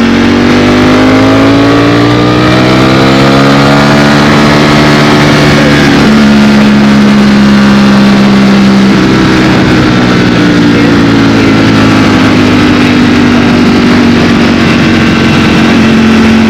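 Ducati Streetfighter V4S's V4 engine running under way, its note climbing over the first few seconds, changing abruptly about six seconds in and again near nine, then falling slowly through the second half.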